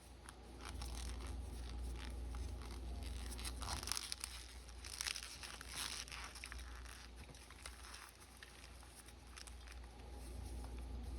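A pressed bar of reformed gym chalk being crushed, crunching and crumbling in irregular crackly bursts, thickest in the middle.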